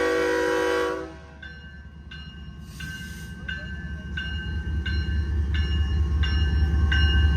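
BNSF freight locomotive's air horn sounding and cutting off about a second in, then a grade-crossing bell ringing steadily, about one and a half strikes a second, while the low rumble of the approaching train grows louder.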